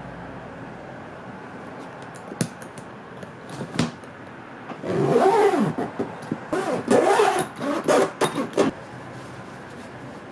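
Suitcase zipper being run open and closed with its replacement slider: a couple of clicks, then several quick rasping passes whose buzzing pitch rises and falls with the slider's speed between about five and nine seconds in.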